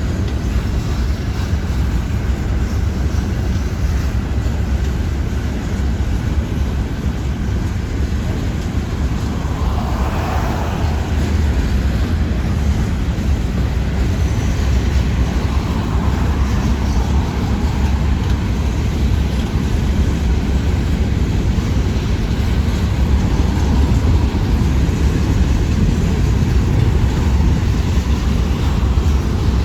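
Freight train of empty rock cars rolling past, a steady, loud low rumble.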